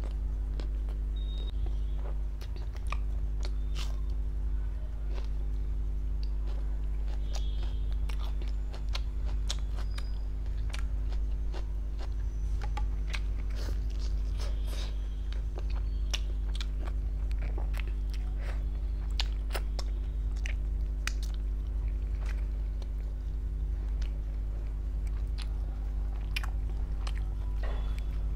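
Close-miked chewing and biting: wet mouth sounds and lip smacks of someone eating chicken in gravy with flatbread. A steady low hum runs underneath.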